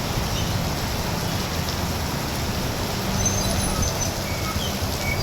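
Torrential rain pouring steadily, with a low rumble underneath and a few faint, short high chirps.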